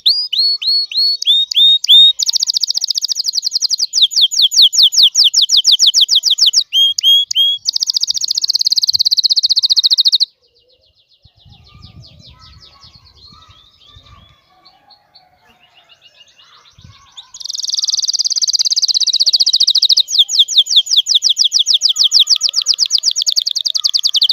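Male canary singing loud, fast trills of rapidly repeated high notes and sweeping whistles, breaking off about ten seconds in to a few faint chirps for several seconds before the trilling resumes. Full song of a canary that the keeper presents as ready to breed.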